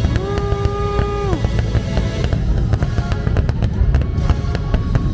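Fireworks show: bangs and crackles of fireworks over loud show music, with one held note in the first second and a half and a heavy low boom underneath.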